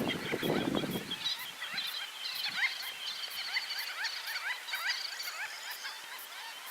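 Many birds calling at once: a dense chorus of short, rising chirps overlapping throughout, with a lower, harsher call in the first second.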